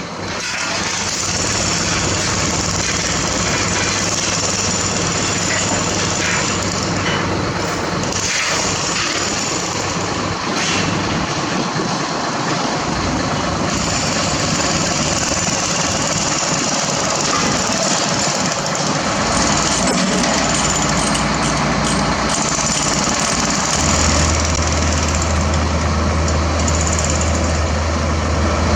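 Heavy diesel machinery running steadily amid dense site noise, with a low engine hum that grows stronger about 24 seconds in.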